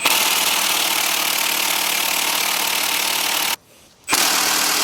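Impact wrench hammering on the LS6's crankshaft pulley bolt in two long runs, with a short break about three and a half seconds in; the bolt is not breaking loose.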